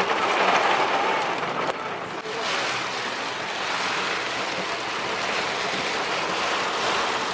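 Steady rushing of heavy rain and water, dipping briefly about two seconds in.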